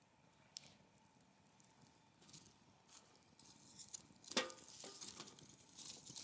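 Wood fire crackling with scattered pops, growing busier and hissing from about halfway, with one sharp pop a little past the middle.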